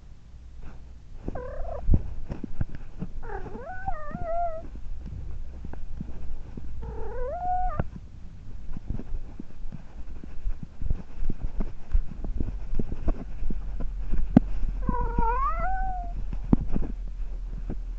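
Domestic cat meowing four times, short bending calls spread across the stretch, over scattered clicks and rustling.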